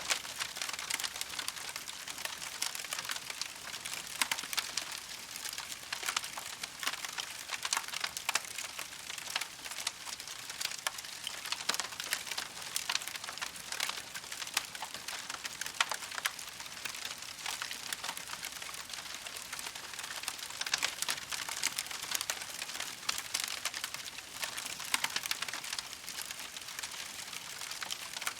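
Campfire crackling steadily: a dense, unbroken run of small pops and snaps over a soft hiss.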